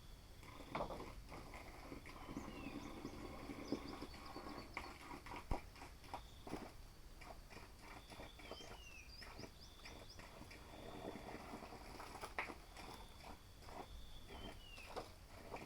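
Faint bird calls: a short falling chirp repeats about every six seconds among higher chirps, with scattered light clicks and taps throughout.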